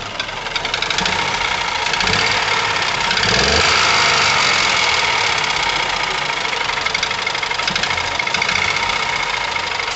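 Ford Ka 1.0 12-valve three-cylinder engine revved up from idle, running with a harsh knocking noise. It rises with the revs from about a second in and eases slightly near the end. The noise is called ugly, and the mechanic takes it to rule out an ignition or fuel-injection fault.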